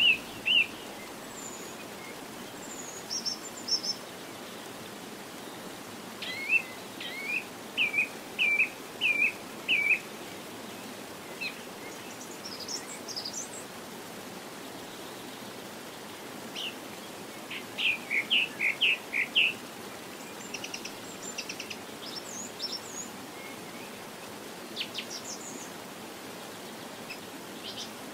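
Birds chirping: scattered short calls and quick runs of repeated notes, coming and going several times, over a steady background hiss.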